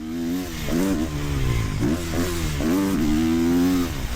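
450cc four-stroke single-cylinder motocross bike engine revving, its pitch rising and falling several times, then held high for about a second before dropping near the end.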